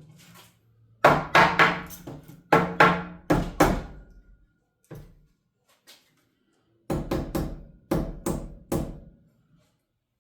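Hammer blows on wooden wall framing: two runs of quick strikes, each blow ringing briefly, the second run starting about seven seconds in.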